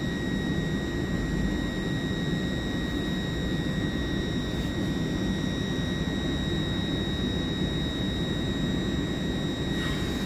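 Passenger train running with a steady rumble and a constant high-pitched whine.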